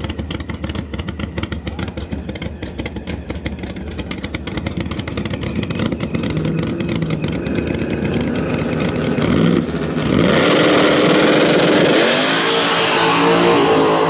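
Drag-racing engine idling with a choppy, pulsing beat, then revving and launching hard about two-thirds of the way through. The engine note gets much louder and climbs in pitch, with one brief dip like a gear change before it climbs again.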